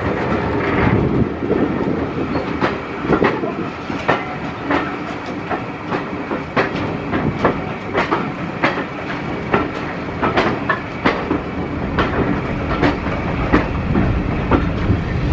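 Heritage railway train riding along the track, heard from a Mk1 coach: a steady rumble of the coach running, with sharp repeated clicks as its wheels pass over rail joints.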